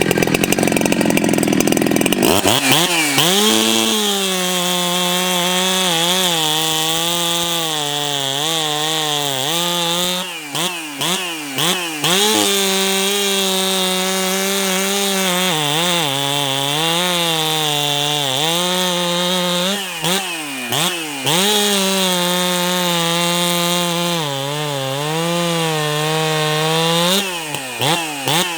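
Ported Jonsered 2165 two-stroke chainsaw firing up and running at high revs while cutting through wood. The engine pitch dips as the chain bogs in the cut and climbs back. The throttle comes off briefly about ten, twenty and twenty-seven seconds in.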